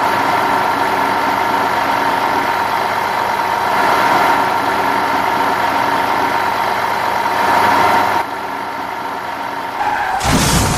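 A vehicle engine running steadily at idle, dropping in level about eight seconds in, then a short, louder burst of noise near the end.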